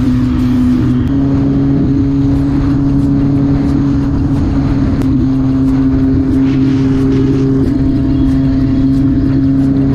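Motorcycle engine running at a steady, nearly constant engine speed while riding, its pitch stepping up slightly about a second in and again about five seconds in.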